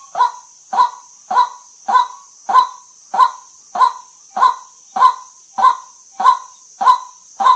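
White-breasted waterhen calling its harsh 'kwak' note over and over, about once every 0.6 seconds in an even rhythm, with a steady high hiss underneath.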